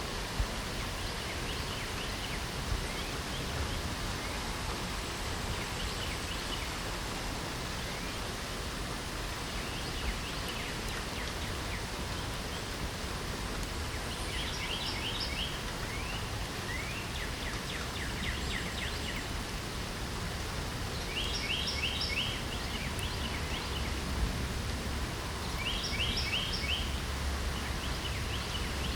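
Steady hiss of light rain, with birds singing short, rapid trilled phrases several times, most often in the second half.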